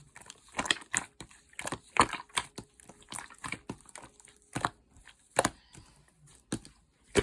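Slime being squished and pressed by hand, giving irregular sticky clicks and pops, with a loud pop at the very end.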